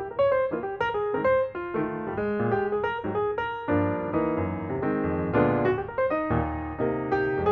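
Background piano music, a steady run of notes several to the second.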